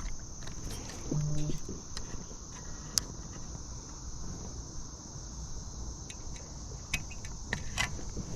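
Steady high-pitched insect chorus, with scattered light clicks and knocks.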